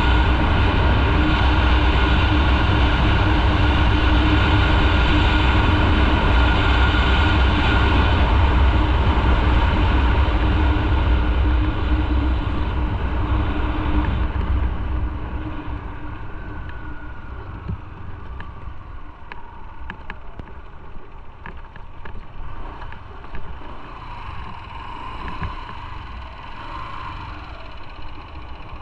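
Motorcycle ride: steady, loud engine and road noise with a few held tones. About fifteen seconds in it falls to a much quieter level as the bike slows, with scattered small clicks after.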